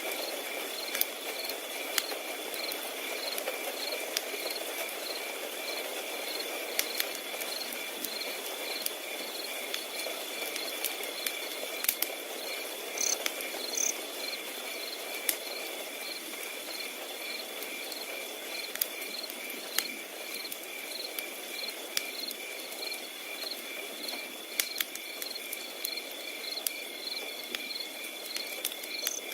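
Crickets chirping: a steady high trill under regular, evenly spaced chirps. A wood fire crackles over them in sharp, irregular pops, with a soft burning hiss beneath.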